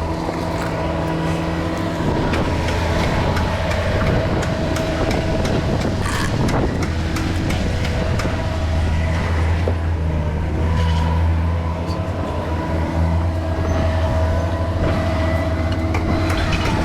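A large engine running steadily with a low, even hum, with scattered clicks and knocks of work over it.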